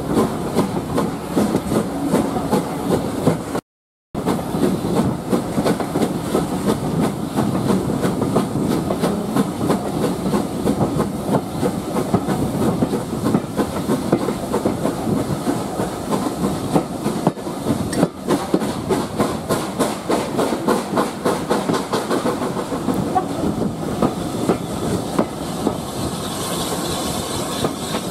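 Steam train running along the line, with a steady, rapid rhythmic clatter. The sound cuts out completely for a moment about four seconds in.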